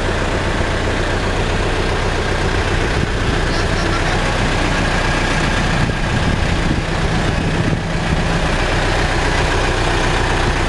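Caterpillar 420D backhoe loader's diesel engine running steadily.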